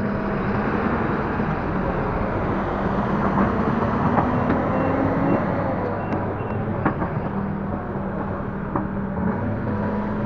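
Link-Belt 145X3E hydraulic excavator's diesel engine running steadily under working load, with a few short knocks along the way.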